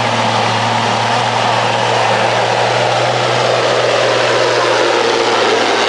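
Kenworth semi truck's Caterpillar 3406E diesel engine running loud and steady under heavy load as it pulls the weight sled.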